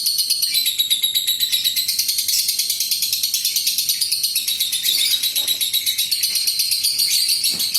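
Lovebird ngekek: one long, unbroken run of rapid, high-pitched chattering notes, about ten a second, at an even pace.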